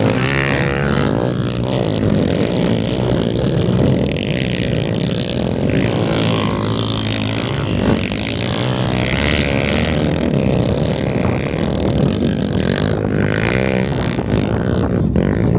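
Several motocross motorcycle engines running and revving at once, their pitch rising and falling throughout.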